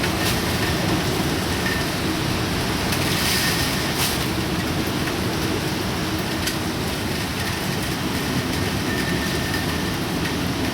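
Typhoon wind and rain: a steady, dense rushing noise with a few faint ticks of rain or debris striking.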